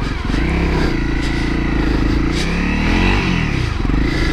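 Honda CRF250L's single-cylinder four-stroke engine running, revving up and back down once about two and a half seconds in.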